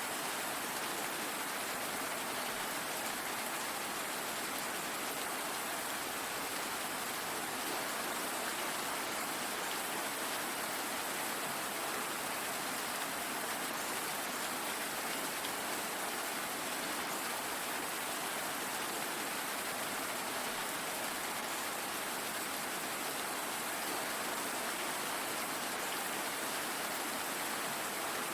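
Steady rain falling, an even hiss of many drops with no thunder or distinct impacts.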